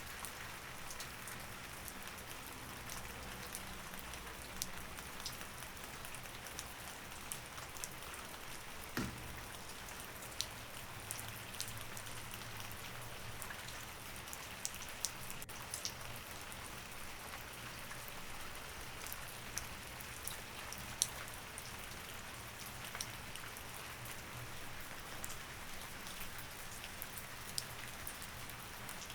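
Steady rain, an even hiss with scattered sharp drips ticking through it, over a faint low hum.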